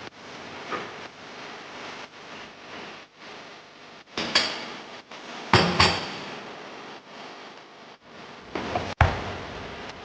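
Kitchen handling noises: a few sharp knocks and bangs over a steady hiss. Two come close together about halfway through, and the loudest comes near the end, typical of cupboard doors, drawers or items being set down during cleaning.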